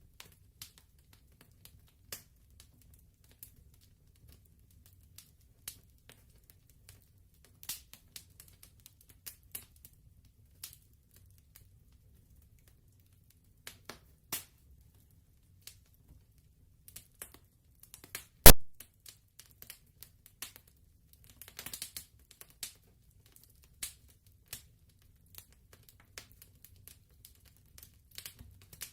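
Wood fire crackling, with irregular small pops over a faint low rumble, one loud sharp pop past the middle and a quick run of crackles just after it.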